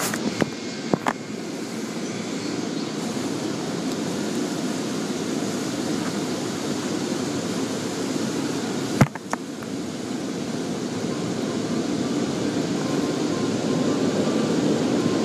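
Steady rushing noise of automatic car wash machinery, with a few sharp knocks near the start and a single knock about nine seconds in, growing slowly louder toward the end.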